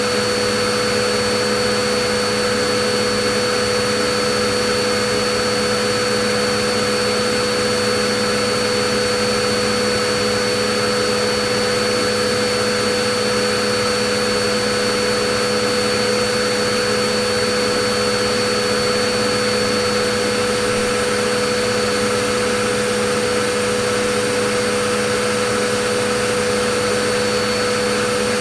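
Vacuum cleaner running steadily: an unchanging motor whine with a few fixed tones over a constant rush of air.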